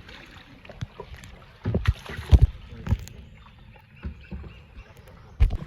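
Kayak being paddled through water: irregular paddle splashes and knocks, the loudest about two and a half seconds in and again near the end.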